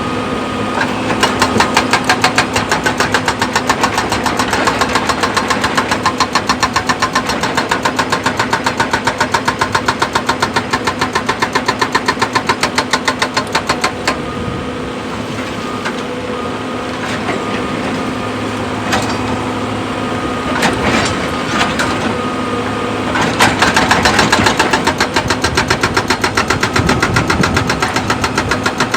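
Excavator's diesel engine running with a rapid, even pulsing beat, several a second, and a few separate clanks in the second half.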